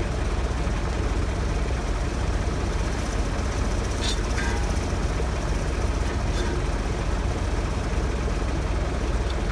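Large engine idling steadily, with a few faint metallic clinks of tools or parts in the middle.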